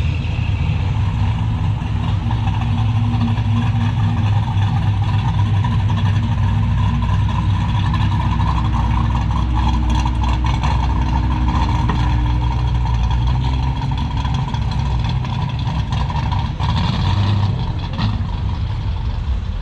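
A vehicle's engine running low and steady as it rolls slowly past, a deep rumble that weakens about thirteen seconds in.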